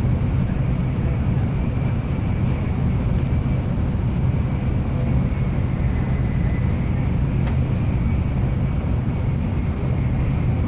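Steady low rumble and rushing noise inside a Nozomi Shinkansen passenger car running on the line, with a faint steady high whine over it and a light click about seven seconds in.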